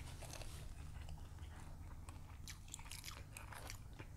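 Close-up biting and chewing of a crisp fried Korean corn dog: many faint sharp crunches of the batter, coming thicker in the second half, over a faint steady low hum.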